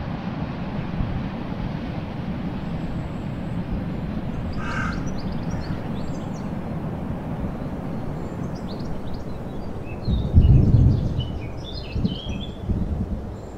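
Steady low outdoor rumble with birds chirping over it, and a few loud low thuds near the end.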